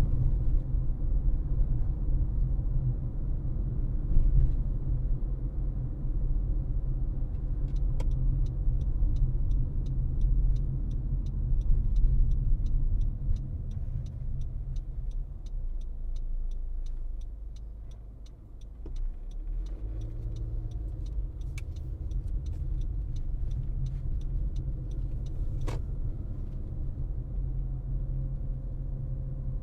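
A car driving on a road: steady low rumble of tyres and engine, easing briefly a little past halfway. For a stretch in the middle there is a light, regular ticking, a few ticks a second.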